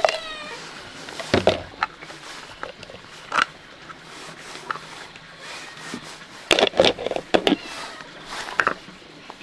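A cat meows once, briefly, right at the start. Then come scattered clatters and scrapes of objects being handled, with a quick cluster of knocks about two thirds of the way through.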